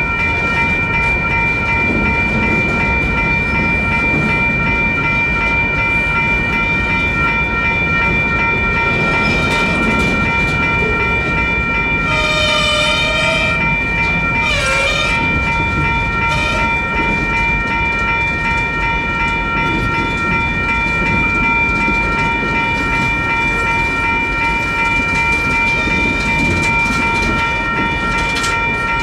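Freight train rolling through a grade crossing with a steady rumble and wheel clatter, while the crossing's electronic bells ring without pause. A short horn blast sounds about twelve seconds in, followed by a few brief wavering tones.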